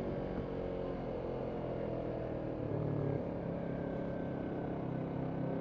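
Yamaha MT-03 motorcycle engine running under way at steady moderate revs, the pitch easing slightly and then picking up again about halfway through.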